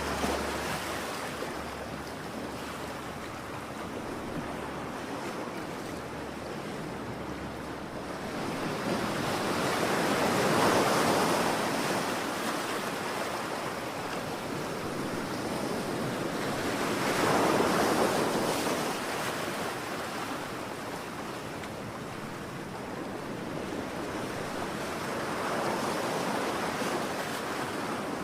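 Ocean surf: a constant wash of water, with three waves swelling and breaking several seconds apart, each rising and falling away slowly.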